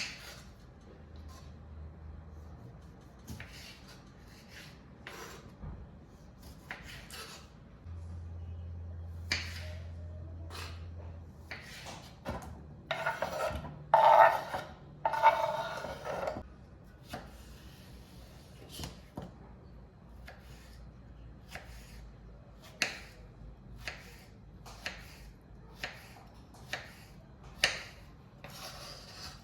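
Kitchen handling sounds: irregular knocks and clinks of dishes and utensils being set down and moved, with a louder noisy stretch of rubbing about halfway through and a steady low hum for a few seconds before it.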